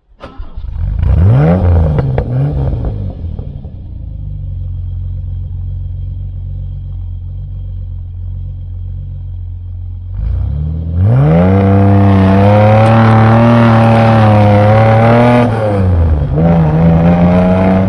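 Opel Commodore A GS's 2.8-litre straight-six engine blipped up in pitch a couple of times, then settling to a steady idle. About ten seconds in it revs up and pulls hard, much louder, falls back briefly near the end and builds again as the car drives off.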